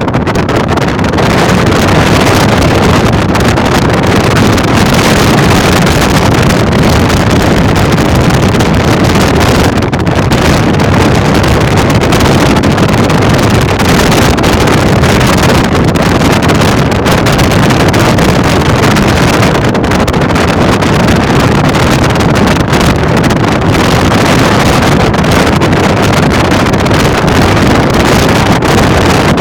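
Loud, steady rushing of wind buffeting the microphone, unbroken throughout.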